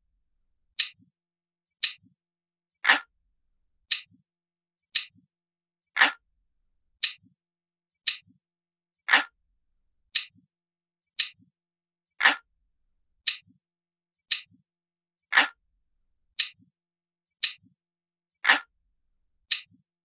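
Glass-like clock ticking sound effect: one crisp, light tick about every second, with every third tick louder and fuller.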